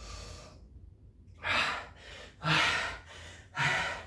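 A man breathing hard and gasping from exertion, out of breath deep into a burpee workout: after a short pause, three loud breaths about a second apart.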